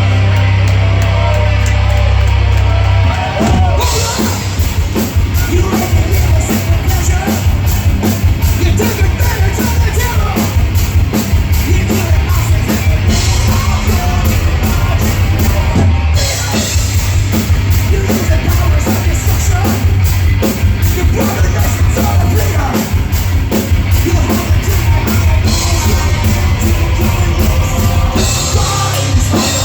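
Rock band playing loud heavy metal live: a held low note rings for about three seconds, then fast, driving drums and the full band come in.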